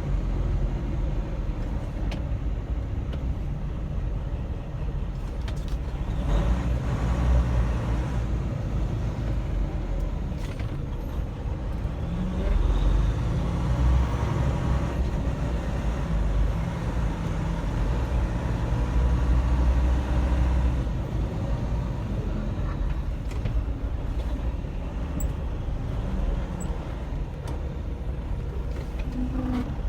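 Semi truck's diesel engine and road noise heard from the cab while driving: a steady low rumble that grows louder and eases off a few times.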